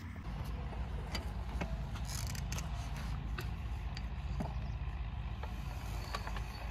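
Lister diesel engine running steadily after starting: a low, even chugging with light metallic ticks over it.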